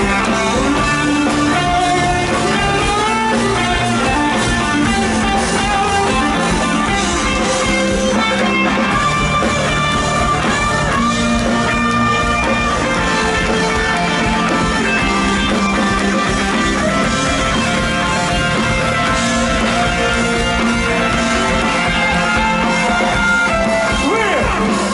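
Rock band playing live: an instrumental passage of guitar over bass and drum kit, with no singing.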